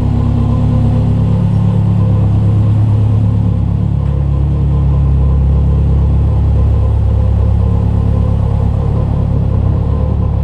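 Subaru Forester's compound-turbo flat-four engine running steadily at low revs as the car reverses out of the driveway.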